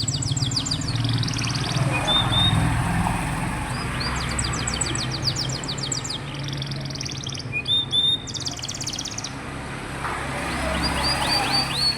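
Domestic canary singing. Its song is fast rolling trills of rapidly repeated high notes, broken by short pauses and a few slurred single notes.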